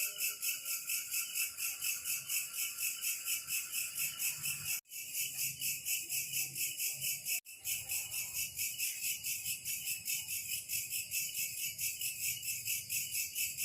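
Insect chorus chirping in a fast, even, high-pitched pulse. The sound cuts out for an instant twice, about five and seven and a half seconds in.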